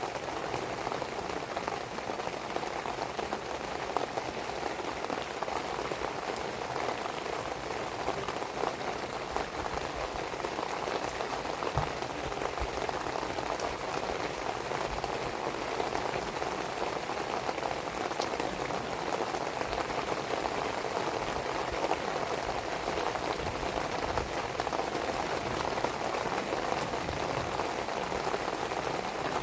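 Steady rain falling in a dense, even patter, with a few faint sharp pops from a burning firewood fire.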